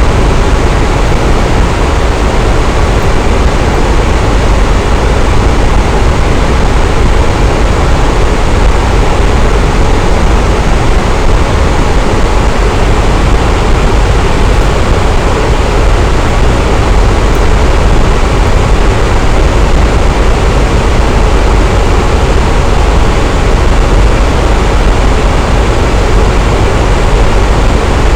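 Electric fan running steadily: a constant rushing whoosh of moving air with a low hum underneath, unchanging throughout.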